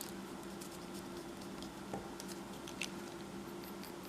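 Faint drawing sounds: scattered light ticks and scratches of a pencil on paper, with a sharper tick about two seconds in and another near three seconds, over a steady faint hum.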